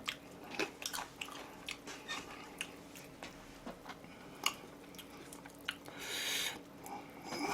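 Close-miked chewing with many small wet mouth clicks. A short burst of noise comes about six seconds in.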